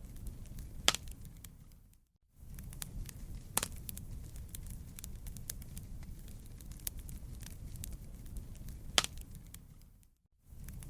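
Wood campfire burning: steady crackling with sharp pops over a low rumble of flame, three louder snaps standing out. The sound dips briefly to near silence twice, about two seconds in and again near the end.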